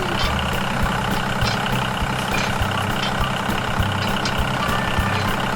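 Small tractor-type engine running steadily at idle, a low, even hum with faint irregular ticks.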